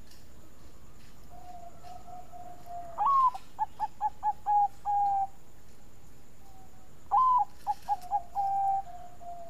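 Zebra dove (Bangkok perkutut) singing two cooing phrases. Each opens with a higher, longer note, runs into a quick string of short coos and ends on a held coo. Fainter coos sound between the phrases.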